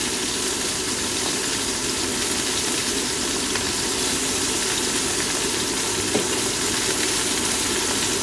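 Sausages sizzling steadily in a frying pan on the stove.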